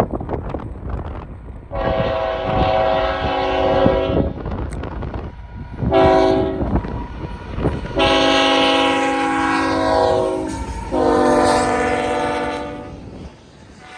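Locomotive air horn sounding four chord blasts, the second one short, over the clatter of rail wheels passing over the track.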